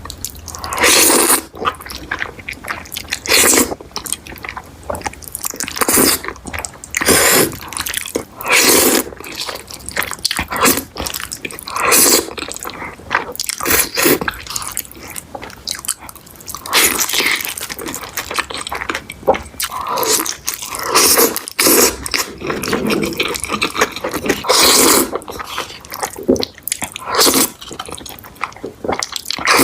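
Close-miked eating of noodles and a breaded cheese chicken cutlet: loud crunchy bites every second or two, with wet chewing and mouth sounds between.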